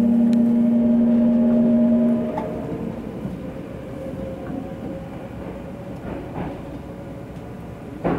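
Passenger train pulling out of a station, heard from inside the car: a loud steady hum cuts off about two seconds in, leaving quieter running noise with a faint rising whine as the train picks up speed. A few sharp clacks from the wheels come near the end.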